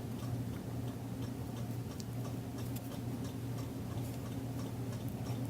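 Faint, light clicking over a steady low hum, a few clicks a second: a typewriter ribbon spool being turned by hand to wind the ribbon back on.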